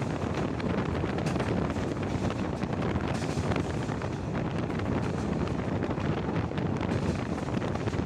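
A passenger train running along the track, heard from an open carriage window: a steady rush of wind on the microphone over the low rumble of the wheels.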